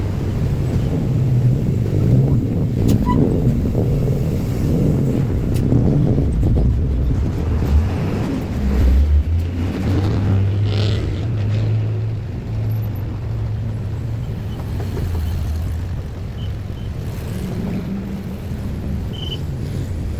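Motor vehicle engines running, rumbling at first and then settling into a deep, steady engine hum about halfway through.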